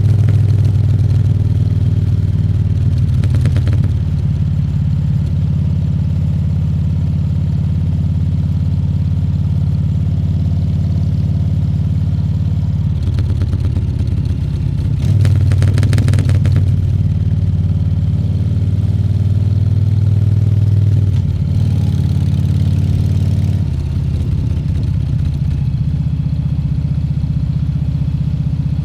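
Harley-Davidson Fat Bob 114's Milwaukee-Eight 114 V-twin running under way, its low note rising and falling with the throttle. About halfway through it pulls harder and louder for several seconds, then eases off.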